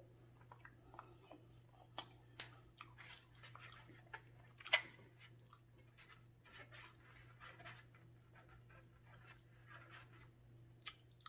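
Faint chewing and mouth sounds of a person eating, with scattered small clicks and one sharper click about four and a half seconds in, over a steady low hum.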